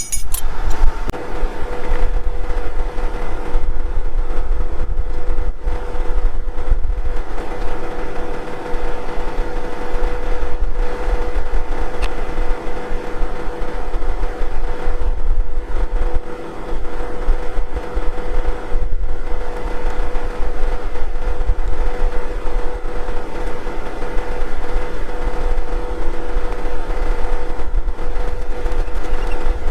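Farm tractor's diesel engine running steadily, a deep rumble with a constant hum over it.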